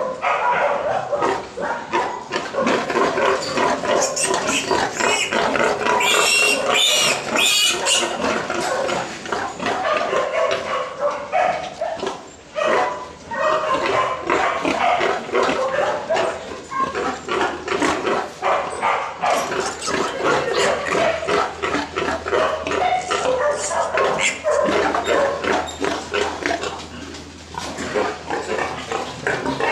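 Pigs in a pen grunting and squealing without a break, with a run of higher-pitched squeals about six seconds in.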